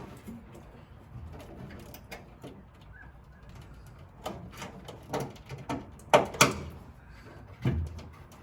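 Hand-handling noises: a scattered series of short clicks and knocks, with two louder knocks close together about six seconds in and another shortly after, as wiring and plastic clips are worked by hand.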